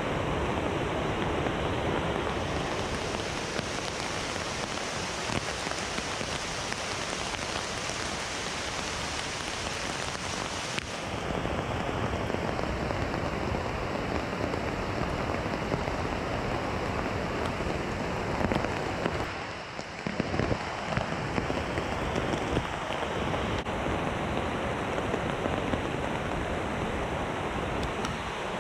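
Heavy rain falling steadily in rainforest, an even hiss. About twenty seconds in it dips briefly, followed by a few sharp taps.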